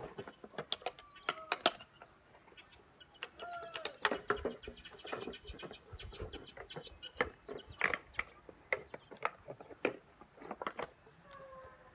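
Birds and chickens calling, with many short chirps and clucks scattered throughout.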